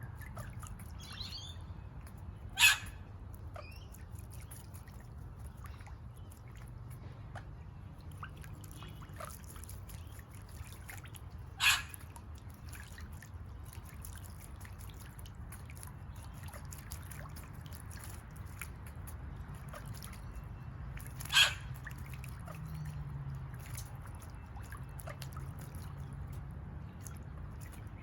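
Red-capped parrot giving a short harsh call three times, about nine seconds apart, with a few faint high bird chirps near the start.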